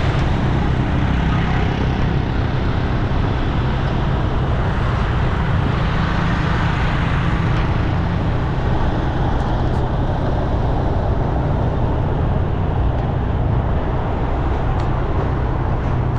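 Loud, continuous road traffic noise: vehicle engines and tyres making a steady low hum under a wide rush of sound.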